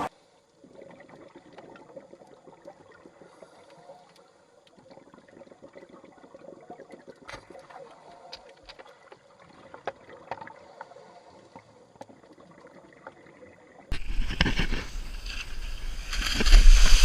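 Quiet water noise with scattered small clicks and splashes. About fourteen seconds in, it cuts suddenly to much louder rushing noise with wind rumbling on the microphone.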